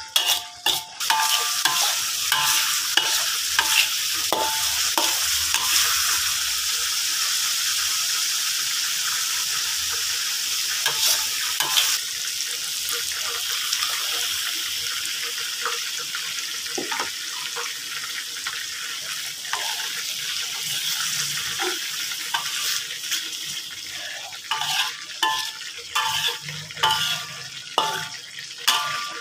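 Blended onion and spice paste sizzling in oil in a metal wok, with a metal spoon scraping and tapping against the pan as it is stirred. About halfway through, spice paste mixed with water is poured in and the sizzle eases a little. The paste is being fried until the oil separates out.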